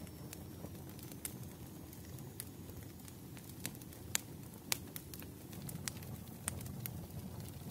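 Wood fire crackling over a low steady rumble, with scattered sharp pops, the loudest two about four and four-and-a-half seconds in.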